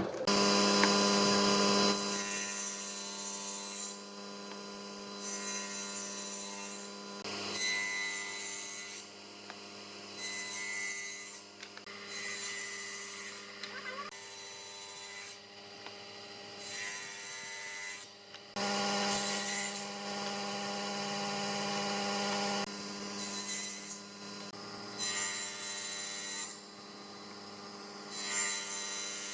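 A power tool running steadily while it works wood in repeated passes: a rasping stroke about every two seconds over the constant motor hum.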